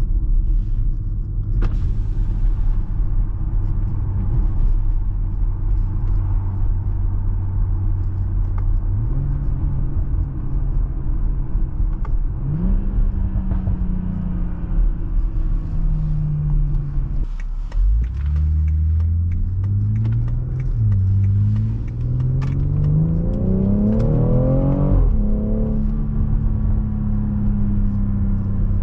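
BMW B58 turbocharged inline-six of a stock 2018 X3 M40i, cruising with a low, steady rumble. In the second half it accelerates hard, its pitch climbing in steps through quick gear changes, then drops suddenly as the throttle is lifted and settles back to a steady cruise.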